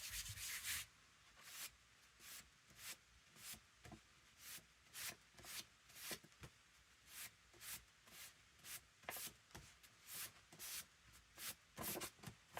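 Faint, evenly repeated rubbing strokes on paper, about one or two a second: a hand smoothing down a freshly glued journal page.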